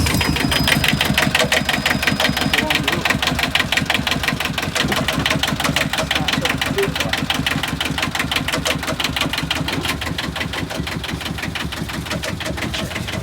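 Boat's inboard marine diesel engine idling just after a glow-plug start, with an even diesel knock of about ten beats a second. It is loudest in the first couple of seconds and settles slightly lower.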